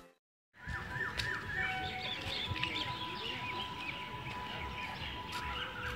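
Birds chirping over outdoor background noise, with a steady thin tone underneath. It starts after about half a second of silence.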